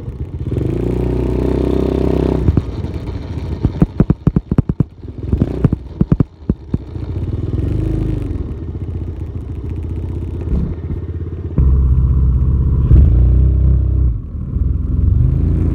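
Dirt bike engine revving up and down in repeated swells as it is ridden. In the middle comes a run of sharp clattering knocks, and the engine runs louder and steadier over the last few seconds.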